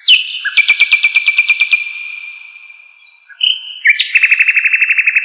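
A songbird singing two phrases: a few clear whistled notes that step in pitch, then a fast, loud trill of about nine notes a second. Each phrase fades away in a long echoing tail.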